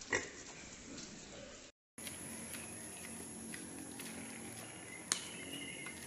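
Domestic pigs in a pen: one short, loud pig call right at the start over low pen noise. After a brief dropout, a different recording follows: a steady high-pitched whine with faint ticks and one sharp click about five seconds in.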